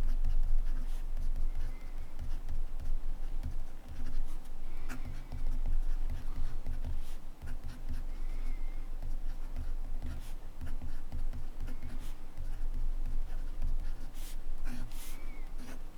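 Montblanc Meisterstück 144 fountain pen writing on paper: irregular scratching strokes of the nib, with small sharp taps and clicks scattered between them.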